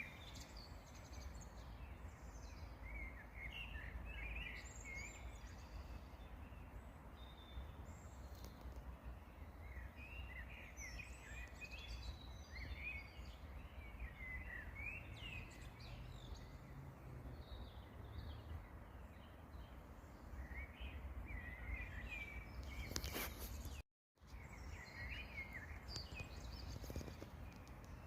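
Faint songbirds singing in short, scattered chirping phrases over a steady low background rumble. The sound drops out to silence for a moment about three-quarters of the way through.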